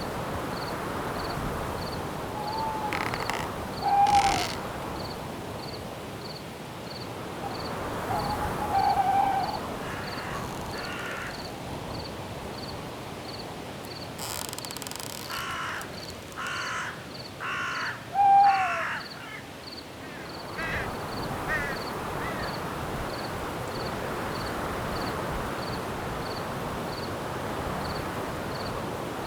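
Night forest ambience: a steady wash of wind with an insect chirping regularly, about one and a half times a second. Harsh bird calls break through a few times, loudest about four seconds in and near eighteen seconds, with a short run of calls in between.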